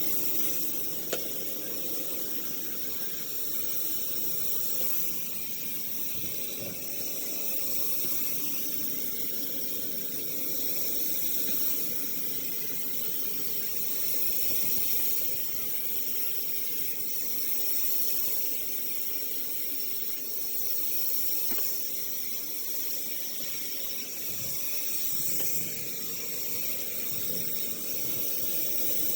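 Large circular wheel saw running steadily through wood: an unbroken hiss with a thin high whine, and one sharp click about a second in.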